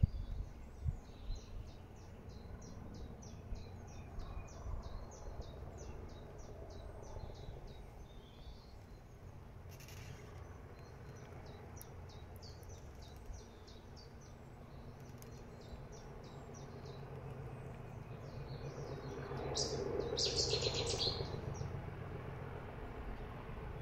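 Small birds chirping and singing in quick repeated notes over a steady low outdoor rumble. A louder burst of calls comes near the end.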